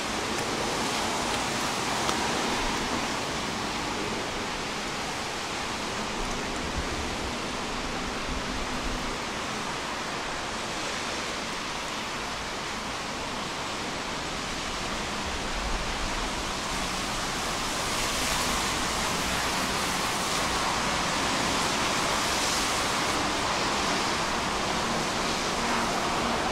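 Steady hiss of light rain falling on a city street, with faint low traffic rumble underneath.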